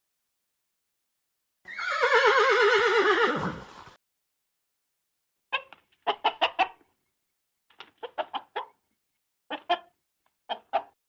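Chickens: one long wavering crow lasting about two seconds and falling at the end, then several bursts of quick, short clucks.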